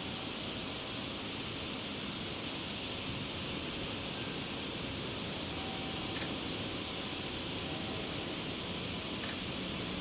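High-pitched insect chirping, a steady pulse of about four chirps a second, over a constant hiss of background noise.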